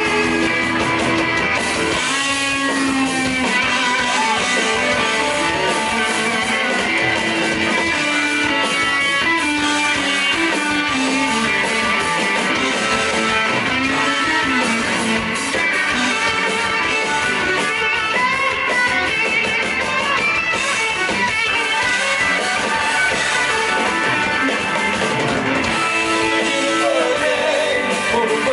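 Live blues-rock band playing an instrumental passage led by electric guitar, with sliding, bending guitar notes over the band.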